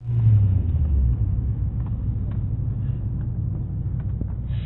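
Honda Ballade's B16 1.6-litre VTEC four-cylinder engine idling, heard from inside the cabin. It is a steady low engine sound, a little louder in the first second.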